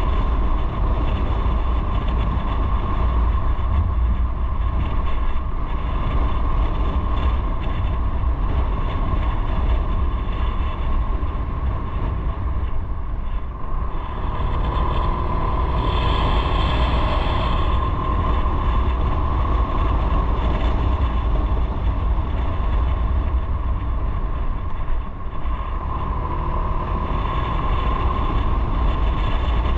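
Motorcycle riding at speed: engine running steadily under a heavy wind rumble on the microphone, with a steady whine and a brief brighter hiss about halfway through.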